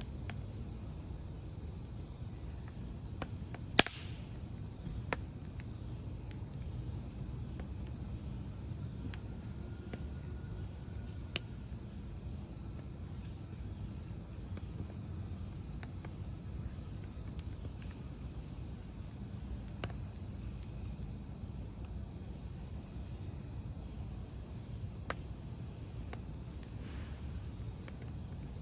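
Crickets chirping in a steady high trill over the low crackle of a wood campfire, with scattered sharp pops from the burning wood; the loudest pop comes about four seconds in.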